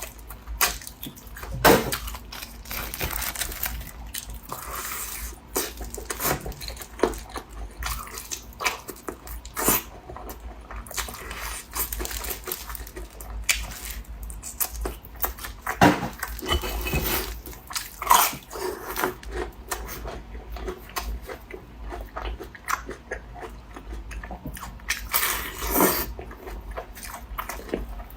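Close-miked eating: irregular biting and chewing with wet mouth clicks, and a few louder, sharper bites.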